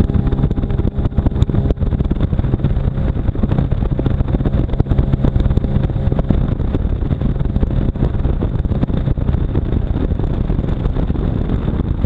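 Jet ski running at speed on plane, with its jet-drive trim set all the way down for top speed. A steady engine drone sits under dense rushing noise.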